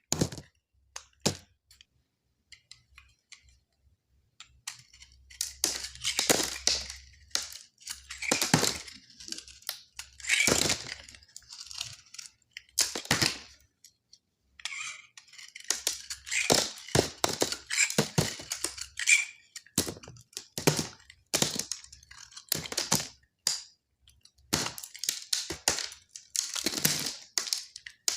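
A knife cutting through dry soap: a run of crunchy, crackling cuts, some short and sharp and some drawn out over about a second, with short pauses between them.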